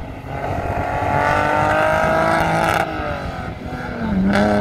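Car engine accelerating hard on a race track, its pitch climbing for about two and a half seconds, then dropping and falling away, and climbing again near the end.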